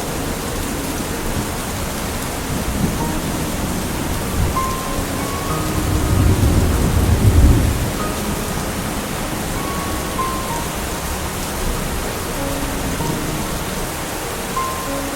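Steady heavy rainfall with a low roll of thunder that builds from about five seconds in, peaks at about seven and a half seconds, then dies away.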